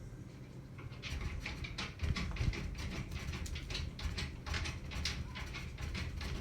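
Unidentified noises from a neighbouring apartment: irregular rapid clicking and scratching over low thuds, starting about a second in.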